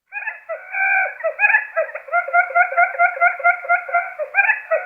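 Quail lure call: a fast run of repeated chirping notes, about five a second, starting abruptly out of silence.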